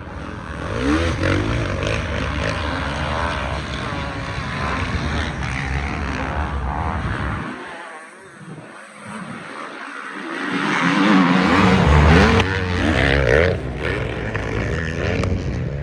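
Several off-road racing engines revving hard as they pass, their pitch rising and falling with the throttle. The sound dips about halfway through, then swells loud again as more machines come by.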